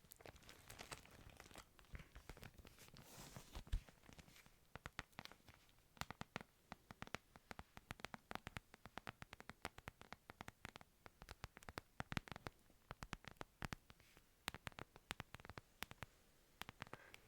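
A Bible handled close to the microphone for ASMR: pages rustling for the first few seconds, then quick taps and clicks on it, several a second.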